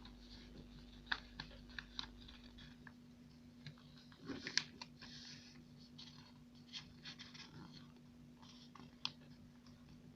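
Sheet of paper being folded and creased by hand: faint crinkling and scattered small clicks, with a louder rustle about four seconds in.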